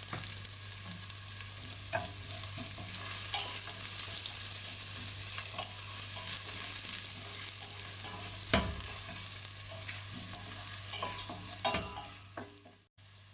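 Onions and curry leaves sizzling in hot oil in a pan while being stirred, with a few sharp knocks of the spoon against the pan. The sizzle fades and stops near the end.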